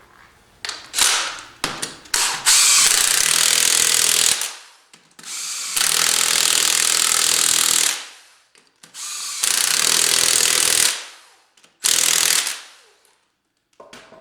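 A handheld power tool run in four bursts of one to two seconds each, running down at the end of each, with a few short clicks before the first: tightening nuts onto bolts.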